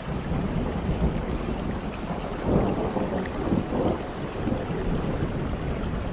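Steady rain with a low rolling rumble of thunder that swells about halfway through.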